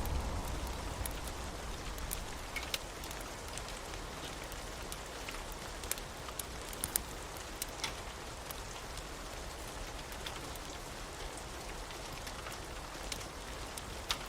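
Steady rain with scattered sharp ticks of drops. A low thunder rumble dies away over the first two seconds or so.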